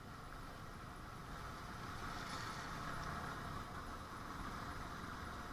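Motorcycle engine running with road noise while riding, growing a little louder about two seconds in.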